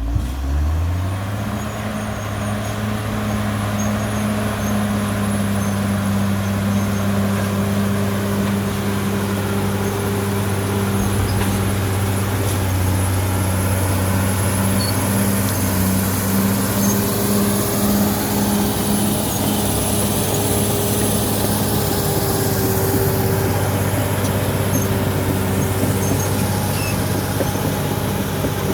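CAT D6R XL bulldozer's diesel engine revving up over the first second, then running steadily under throttle, with a thin high whine above it.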